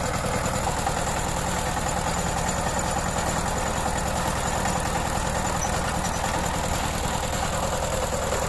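Power tiller's diesel engine running steadily at idle, with an even, rapid pulsing beat.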